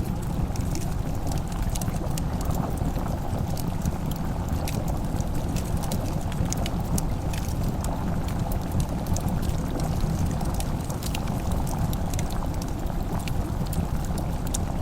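Wood fire crackling in a fireplace, many small sharp pops scattered over a steady low rumble.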